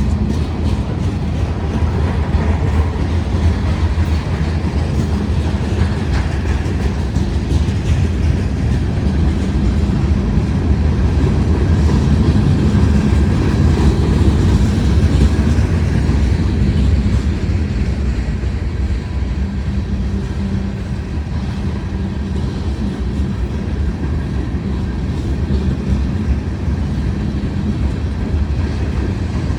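A mixed freight train's cars rolling past on the rails, a steady low rumble with wheel clatter. The sound swells a little around the middle and eases off toward the end.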